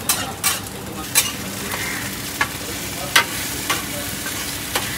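Oyster omelette frying in a large flat pan, with a steady hiss of sizzling oil. Sharp metal clinks of a spatula knocking on the pan come every half second to a second.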